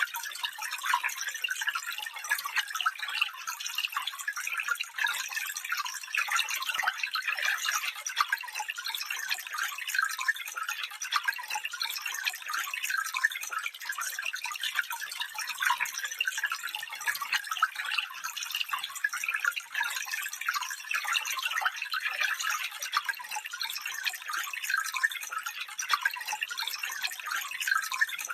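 Small stream of water running, a continuous burble of quick trickling splashes with no deep rushing tone.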